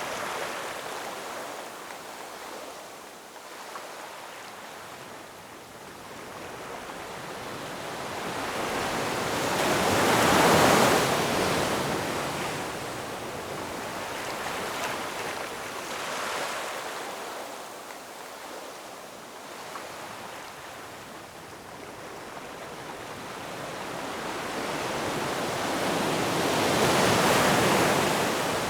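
Ocean waves breaking and washing in: a steady hiss of surf that swells to a loud crash about ten seconds in and again near the end, then eases back.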